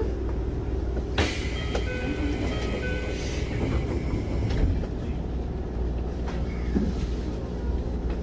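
Keikyu 1500 series electric train standing at a station, heard from inside the car: a steady low hum from the train's equipment, with a sharp click about a second in and a dull thump about halfway through.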